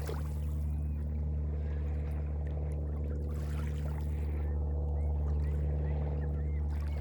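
Small lake waves washing onto a beach, one soft surge about three seconds in and another starting near the end, over a steady low engine-like hum.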